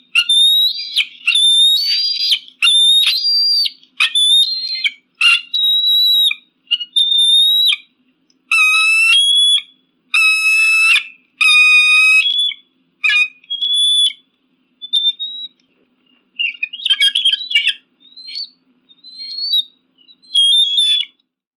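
Eagle giving a series of high, whistled calls, about one a second, each under a second long; after about twelve seconds the calls become shorter and more broken up.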